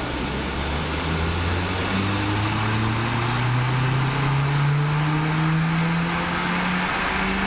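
Turbocharged Ford Fiesta ST engine under load on a rolling-road dyno, its pitch rising slowly and steadily as it pulls up through the revs on a power run.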